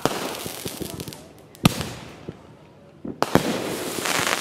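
Aerial fireworks shells bursting with sharp reports: one at the start, one about a second and a half in, and two in quick succession about three seconds in, followed by a grainy crackle.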